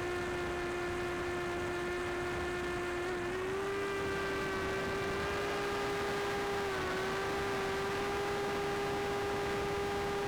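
Drone propellers and motors humming steadily in flight, stepping slightly up in pitch a little after three seconds in and dipping briefly near seven seconds.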